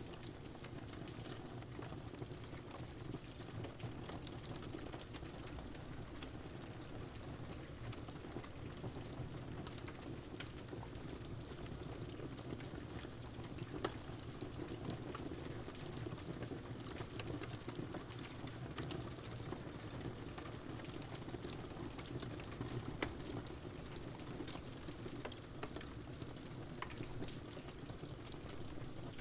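Wood fire crackling with scattered sharp pops, over the steady hiss of rain. A couple of louder pops come about halfway and about three-quarters of the way through.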